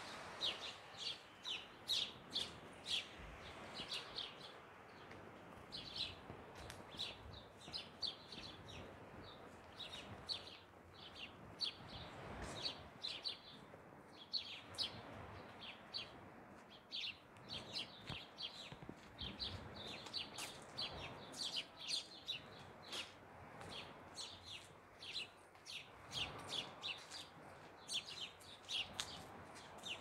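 Small birds chirping, with many short, high chirps in quick irregular succession over faint outdoor background noise.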